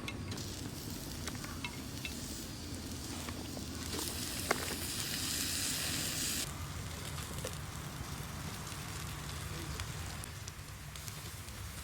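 Food sizzling in a pan over a wood campfire, with scattered small crackles; the hiss grows louder and brighter for a couple of seconds around the middle.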